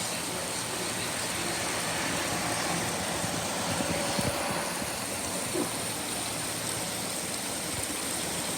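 Steady rain falling, an even hiss with a low rumble underneath that swells slightly about halfway through.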